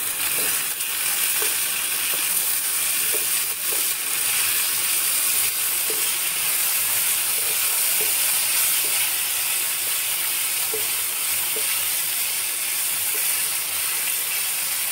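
Sliced onions and chopped tomatoes with dal and dried red chillies sizzling steadily in hot oil in a frying pan, stirred with a spatula.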